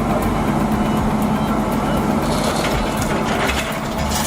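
Heavy truck engine running steadily, with people's voices in the background and a hiss joining about halfway through.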